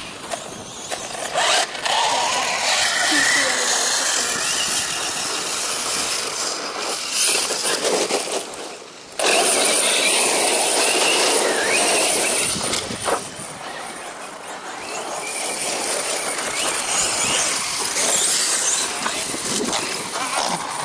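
Brushless electric motor of a radio-controlled DHK Maximus truggy whining up and down as it drives on a dirt track, with loud gritty tyre and drivetrain noise that comes and goes in stretches, briefly dropping off about nine seconds in.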